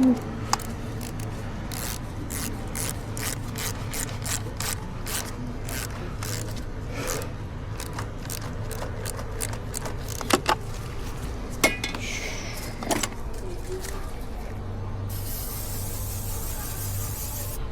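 Scattered clicks and scrapes of hand tools on metal, a few sharper knocks about two-thirds through, then a steady hiss of an aerosol spray near the end.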